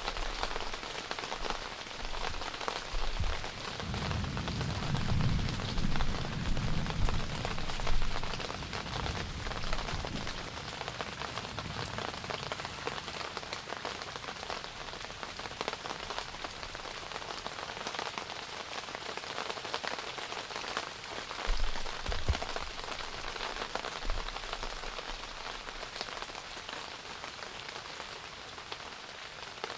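Steady rain falling on a tent, a dense hiss of fine drop ticks. A low rumble swells about four seconds in and lasts several seconds, with shorter low swells later on.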